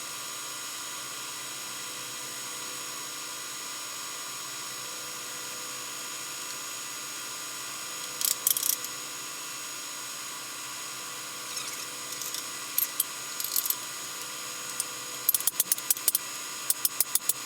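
Steady shop hum with a few fixed tones, broken by small groups of sharp metallic clicks and clinks about 8 s in and again through the last few seconds, the last run coming quickly one after another.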